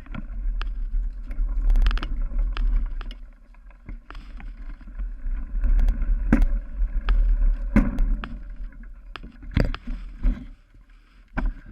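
Cyclocross bike ridden hard over rough dirt and grass: a steady deep rumble of wind and riding on the microphone, with repeated sharp knocks and rattles as the bike bounces over bumps. The noise eases near the end.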